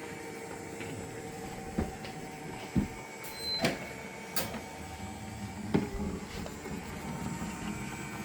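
Small robot cleaner running: a steady motor whir with a handful of sharp knocks.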